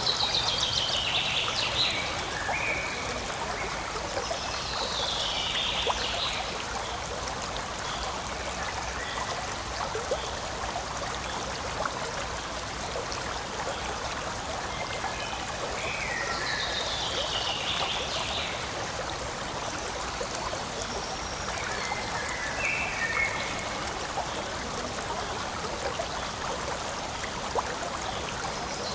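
Forest stream flowing steadily, a continuous trickling rush of water. A few short high calls fall in pitch over it, near the start, about four seconds in and again about halfway through.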